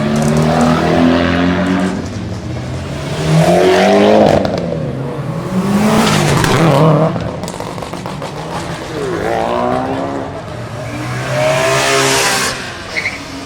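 Performance car engines revving hard and accelerating in about five separate loud pulls. Each pull rises and falls in pitch, like cars pulling away and passing by.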